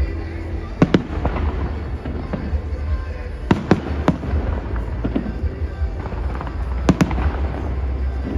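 Aerial fireworks shells bursting with sharp bangs in three quick clusters, about a second in, around three and a half to four seconds in, and near seven seconds, over a steady low rumble.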